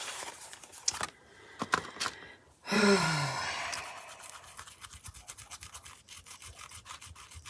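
Light paper handling, small taps and rustles, broken about three seconds in by a woman's short groan that falls in pitch over a breathy exhale, a sound of dismay as the glued piece goes wrong.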